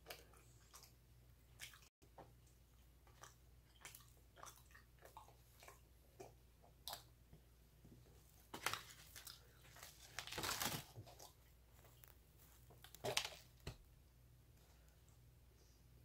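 A person chewing bites of a Krispy Kreme glazed donut: faint chewing with scattered short clicks, and a few louder mouth noises about nine, ten and a half and thirteen seconds in.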